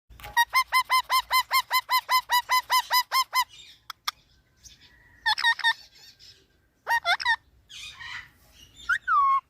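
Pet parrot calling: a rapid run of about twenty repeated pitched calls, some seven a second, for about three seconds. Then come a few short bursts of calls and one drawn-out falling call near the end.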